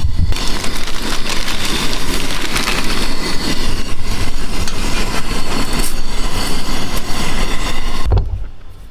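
Pot of water at a rolling boil on a propane camp stove, the burner hissing and the water bubbling, steady and loud until it drops away sharply near the end.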